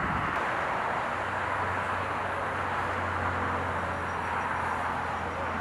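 Jet airliner engines running, a steady, even noise with a low hum joining about a second in.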